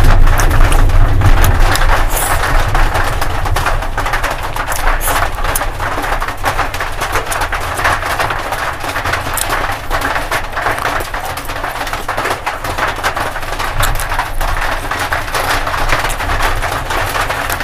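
Close-miked eating sounds: steady chewing and mouth noises with many small wet clicks as rice and fried pork are eaten by hand.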